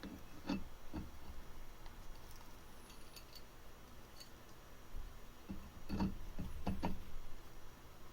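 Scattered small metal clicks and knocks of hand tools and parts being handled, with a few near the start and a busier run about six to seven seconds in.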